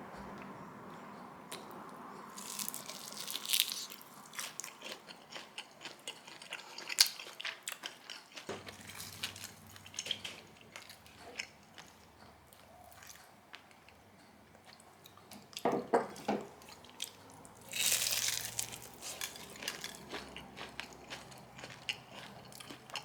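Crispy air-fried chicken wings being bitten and chewed: two louder crunching bites, one a few seconds in and one near the end, with small crackling clicks of chewing between them.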